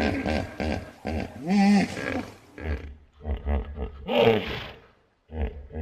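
Hippopotamus calling: a string of pitched grunting honks, with a drawn-out call that rises and falls about a second and a half in, a quick run of short pulses, and a loud honk about four seconds in.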